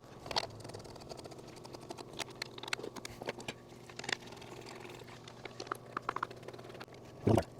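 Hand tools clicking and tapping against metal engine parts while bolts are fitted and tightened, irregular light clicks over a steady low hum, with one louder thump near the end.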